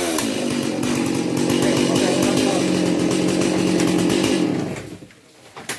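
Chainsaw running at a steady pitch, then cutting out about four and a half seconds in.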